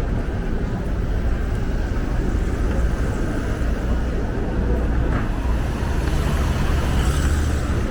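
City street ambience: a steady low rumble of road traffic passing by.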